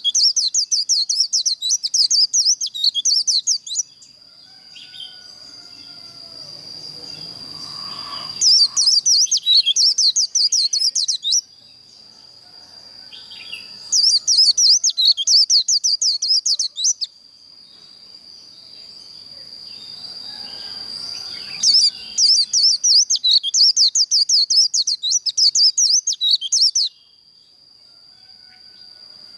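White-eye (vành khuyên) singing its rapid, high twittering 'líu' song in four bouts of a few seconds each, with pauses between. A steady thin high tone runs underneath throughout.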